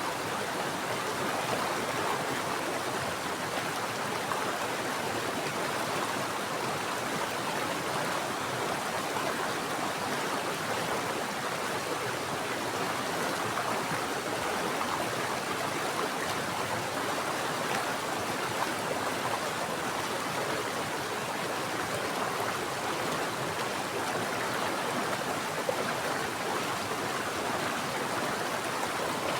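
Mountain stream running steadily, an even rush of water.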